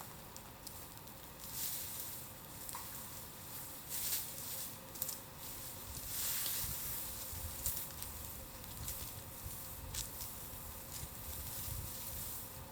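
Bamboo bonfire burning, with a steady hiss and irregular sharp crackles and pops, swelling louder several times.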